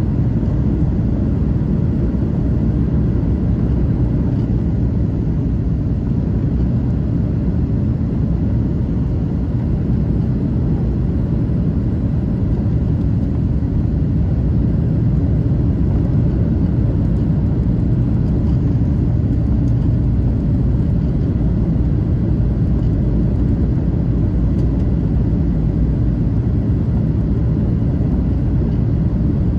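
Steady, low cabin rumble of a Boeing 737-800 airliner under way, its engines and airflow heard from inside the passenger cabin.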